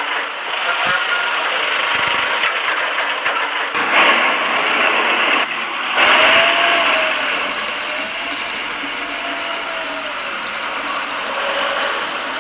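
A small motor running steadily with a rattling, whirring sound, briefly louder about four and six seconds in.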